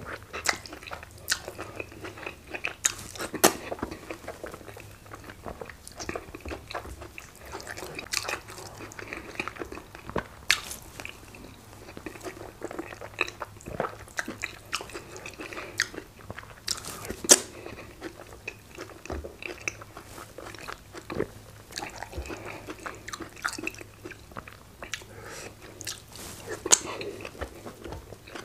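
Close-miked mouth sounds of a person chewing fufu and efo riro vegetable soup, with irregular sharp clicks and smacks throughout.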